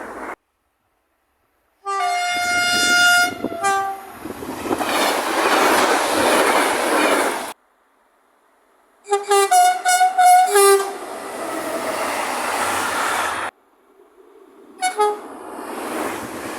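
Three separate train passes, each cut off abruptly. In each, a train horn blasts, a long blast with a shorter one after it and then several short blasts, and then the train rushes past with wheel and rail noise.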